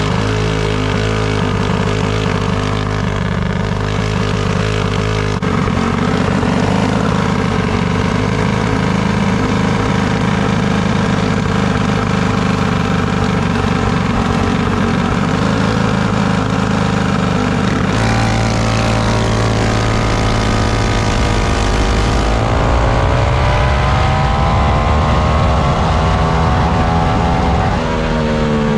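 Racing minibike engines at high revs, running hard and continuously. The pitch rises and falls as the bikes accelerate and ease off, with a marked shift about eighteen seconds in and rising pitch near the end.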